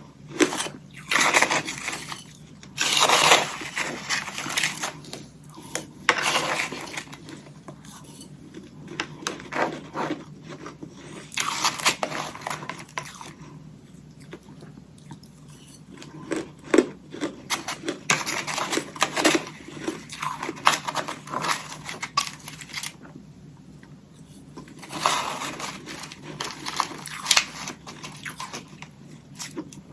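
Hollow ice sticks coated in freezer frost being bitten and chewed: several bursts of crisp crunching, with quieter pauses between them.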